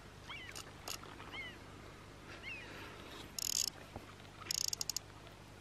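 A bird calling with short, repeated chirps, and two brief high-pitched rasping bursts, the first about three and a half seconds in and the second a fast run of clicks a second later.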